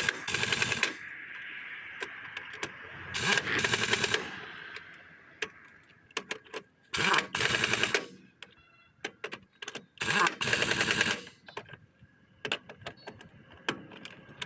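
Pneumatic impact wrench rattling in short bursts of rapid hammering, four bursts of about a second each with single clicks between, as the nuts of a refitted truck wheel are run on and tightened.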